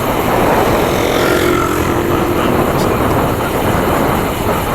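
Steady, loud wind rush buffeting the microphone of a camera on a moving bicycle. A faint humming tone comes in about a second in and lasts a second and a half.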